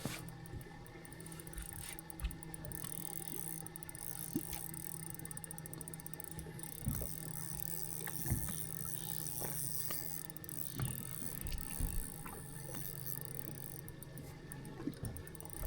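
A steady low hum with scattered light knocks and taps; part of the hum drops out for a few seconds in the second half.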